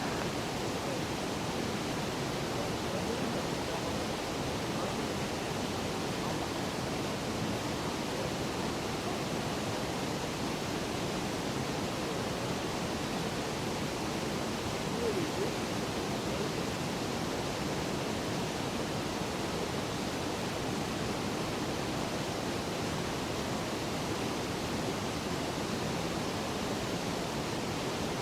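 Rushing water, a steady even hiss with no let-up.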